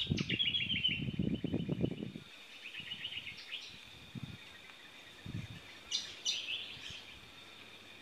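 Wild birds calling: a fast trill of rapidly repeated high notes in the first two seconds, a shorter trill about three seconds in, and a couple of sharp calls near six seconds. Low rumbling sits under the opening two seconds.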